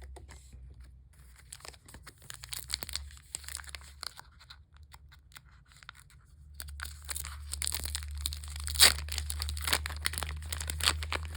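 Foil Pokémon booster packs being torn open and crinkled, a run of irregular crackles and tears, busier and louder in the second half, with one sharp loud rip about nine seconds in.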